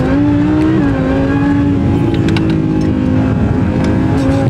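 Audi R8's V10 engine pulling hard under full throttle, pitch climbing, with a quick upshift about a second in, after which it keeps pulling.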